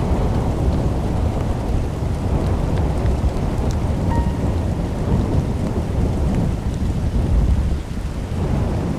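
Steady rain falling close to the microphone, with drops landing on the camera, over a continuous low rumble.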